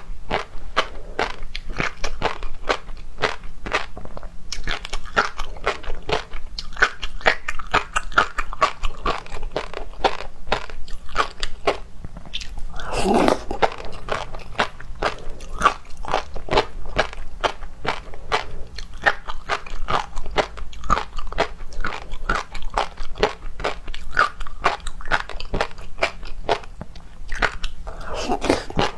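Close-miked eating of seafood: steady chewing and biting with a fast run of wet, sharp mouth clicks. A louder, longer smeared sound stands out twice, about halfway through and near the end.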